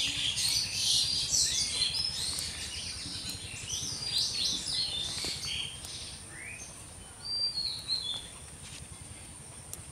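Small birds chirping: a dense chatter of many short high calls for the first six seconds or so, then a few single whistled notes. A steady high-pitched whine runs underneath.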